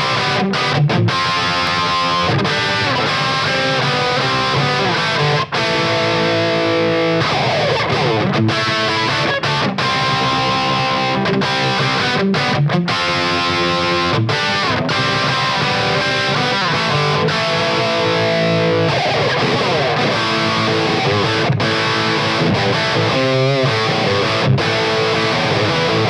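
Electric guitar through a 50-watt EL34 valve amp head on its JCM800-style distortion channel in hot rod mode, playing a mid-gain rock riff of chords with short stops and a couple of slides.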